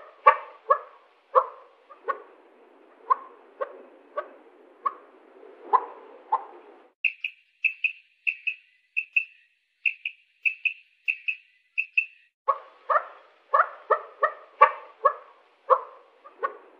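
Quail calling: a series of short, rough calls a few per second, with a stretch in the middle of high, clear, short notes repeated about three a second before the rough calls resume.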